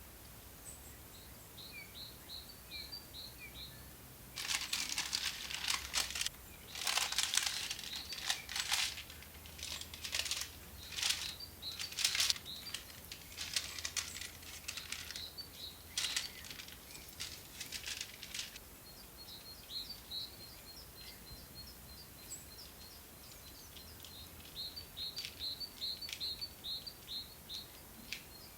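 A small bird chirping in quick, high, repeated notes, and through the middle stretch an irregular dry rustling and crinkling that comes and goes for about fourteen seconds.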